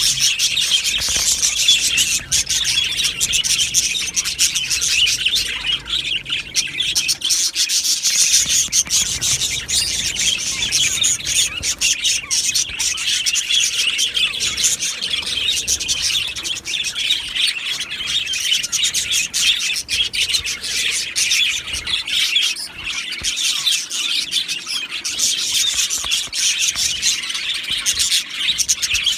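A flock of budgerigars chattering and chirping together, a dense continuous warble of overlapping calls.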